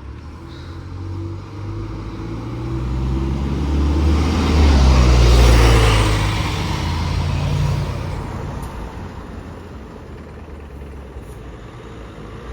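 A bus passing close by. Its diesel engine and tyre noise swell to a peak about five seconds in, then die away as it goes.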